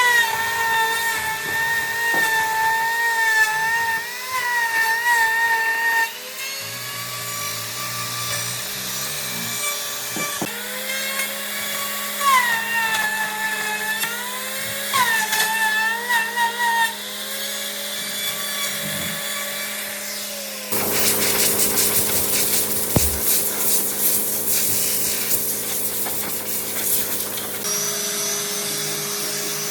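An electric power tool working wood: its motor whine dips in pitch and recovers again and again as it bites under load. From about two-thirds of the way through, a harsher, rasping grinding or sanding noise takes over for several seconds.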